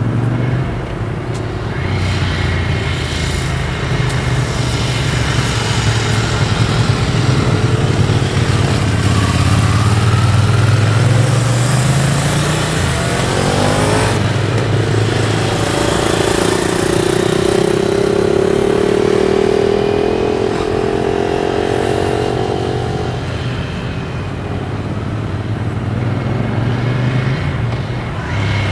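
Motorcycle engine running, its pitch rising and falling as the throttle is opened and closed, with a sharp rev up about halfway through.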